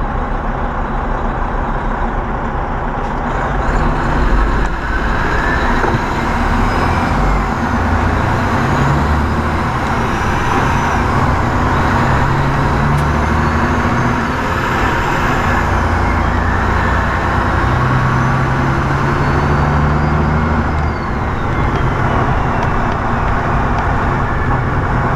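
Semi truck's diesel engine running, its note stepping up and down several times, in a truck whose turbocharger the driver believes has failed.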